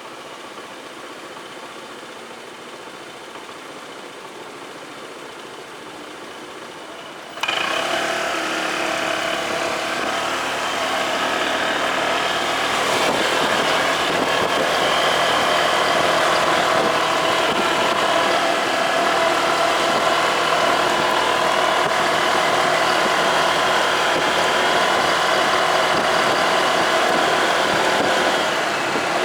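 Motorcycle engine running at a low idle, then from about seven seconds in a sudden, much louder steady engine-and-road noise, as of the bike under way.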